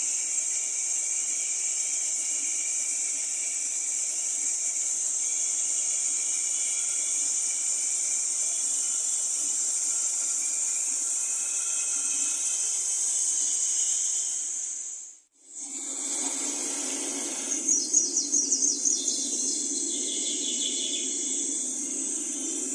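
Steady, high-pitched insect chorus. After a cut about two-thirds through, a different outdoor scene follows, with a low rumbling noise and a brief run of rapid high chirps.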